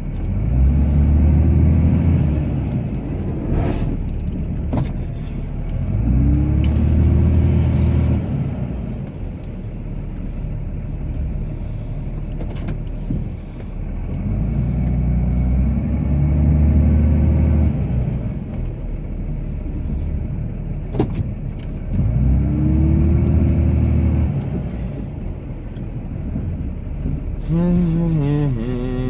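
Cummins inline-six turbo-diesel of a Ram pickup pulling a snowplow, revving up under load and easing off again four times as the truck pushes and backs off, heard through the cab.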